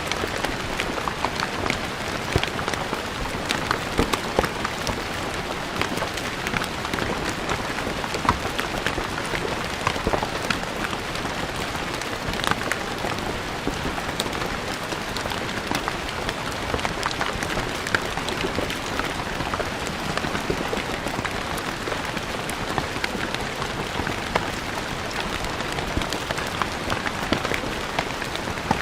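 Steady rain falling on a stone floor, an even hiss dotted with many sharp individual drop splats.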